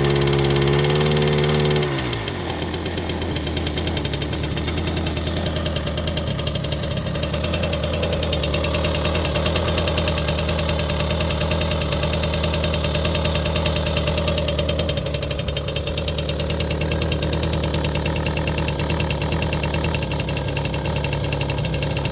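Riga Stella moped's D-16 single-cylinder two-stroke engine running at raised revs, then dropping back to a steady idle about two seconds in.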